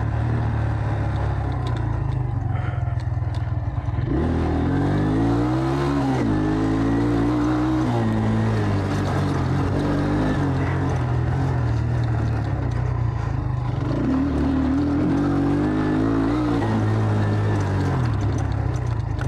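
Enduro motorcycle engine running under a rider, revving up and down with the throttle as it climbs and drops through the revs. The pitch rises sharply about four seconds in, then falls, and rises and falls again near the end.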